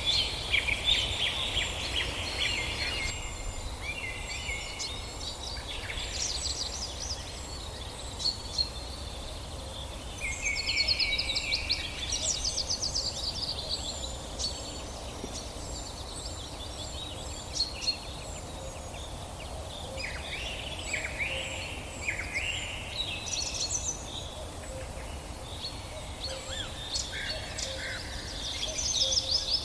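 Several songbirds singing in overlapping phrases: fast trills, falling chirps and a run of short, high repeated notes, coming every few seconds over a steady low background rumble.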